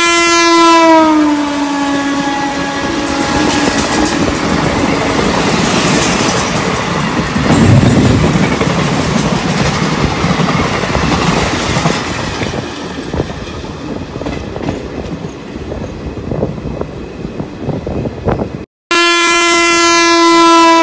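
Horn of an oncoming Indian Railways WAP-4 electric locomotive sounding and dropping in pitch as it passes. Then the rush and rattling clatter of its coaches going by on the next track, heard from a moving train. After a cut near the end, another horn blast falls in pitch the same way.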